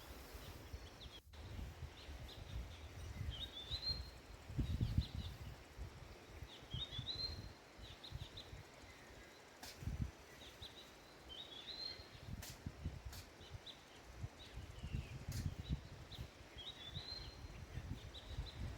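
A bird repeating a short rising chirped phrase every few seconds, over an irregular low rumbling.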